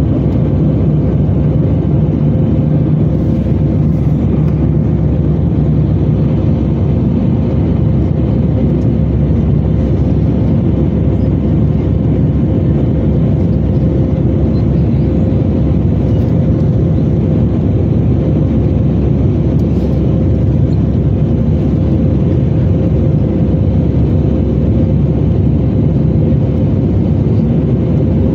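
Steady, even roar inside the passenger cabin of an Airbus A320-214 in flight: its CFM56 turbofan engines and the airflow over the fuselage, with a faint constant hum running through it.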